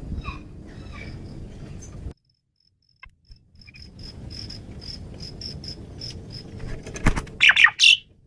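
Asian pied starling singing: after a short break in the sound, a run of short, high notes repeated a few times a second, then a loud burst of sweeping, harsh calls near the end.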